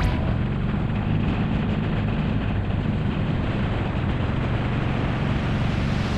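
Harley-Davidson Forty-Eight's air-cooled V-twin running at a steady pace, with wind noise on the camera microphone.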